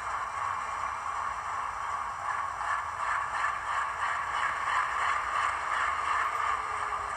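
Sound decoder's recording of an Alco 251 16-cylinder diesel prime mover idling, played through an HO-scale model locomotive's small speaker. The sound is thin, without deep bass, and swells a little partway through as the looped idle revs up and down to imitate a Woodward governor-fitted WDM2.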